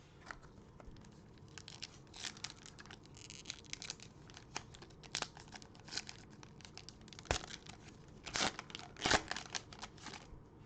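A cellophane-wrapped trading card pack being torn open and its wrapper crinkled, in a run of short crackly rustles that are loudest about two thirds of the way through.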